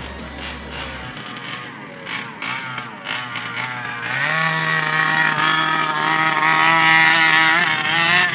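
Mildly modified two-stroke gas engine of a 1/5-scale HPI Baja RC buggy revving up in a few rising pulls, then held at full throttle as a loud, steady high-revving note for about four seconds before it cuts off suddenly near the end.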